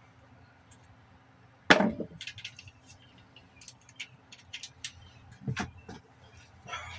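A sharp metallic clank with a brief ring a little under two seconds in, then scattered light clinks and taps and a duller knock later on, as metal parts and tools are handled.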